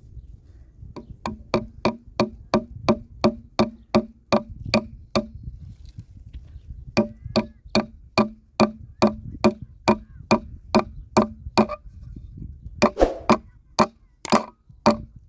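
Hammer striking wood in quick, even blows, about three a second, in two runs of several seconds with a short pause between, then a few louder, irregular knocks near the end.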